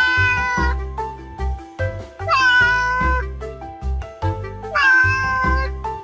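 Domestic cat meowing three times, each meow drawn out for under a second and spaced about two and a half seconds apart. Background music with a steady beat plays underneath.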